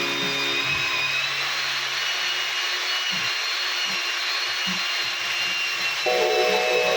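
Electric power tool running steadily with a high motor whine, under background music that fades out early and comes back in near the end.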